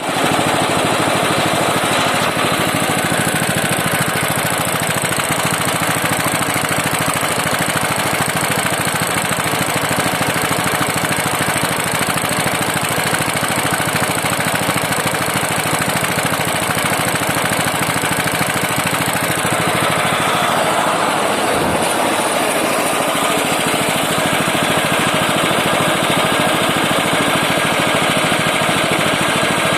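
Small petrol engine of a snowblower running steadily at speed, with a short shift in its sound about two-thirds of the way through.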